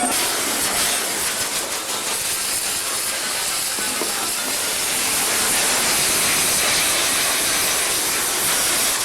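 Large festival bonfire burning: a loud, steady hiss with faint crackles through it.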